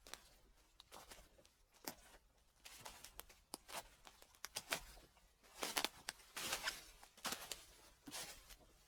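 Footsteps crunching through dry fallen leaves, a series of short crackling rustles, the strongest steps in the second half.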